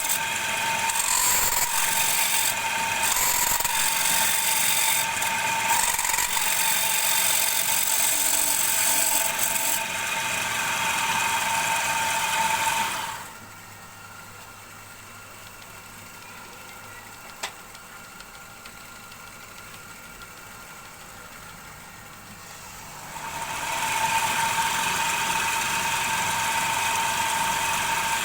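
Wood lathe running with a steady whine, with the hiss of a tool cutting wood over the first ten seconds. About thirteen seconds in the sound drops to a quieter low hum with one click, then comes back up to the full whine about ten seconds later.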